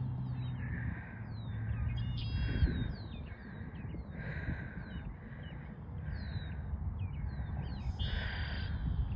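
Birds calling over and over: a harsh call about once a second, with quick downward chirps in between and a couple of brief ringing calls, over a low rumble of wind and running footsteps.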